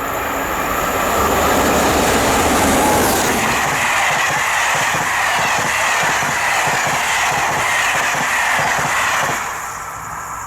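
A train passing at speed on electrified main-line track, its wheels clattering in a fast, even rhythm over the rail, with a hissing rush of noise that eases a little near the end.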